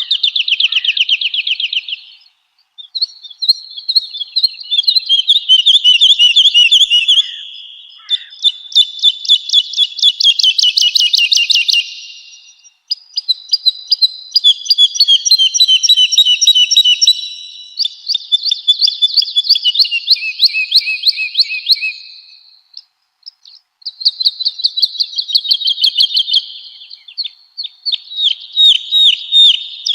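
Woodlark singing: phrases of rapid repeated notes, each run lasting a few seconds with short pauses between, some stepping down in pitch.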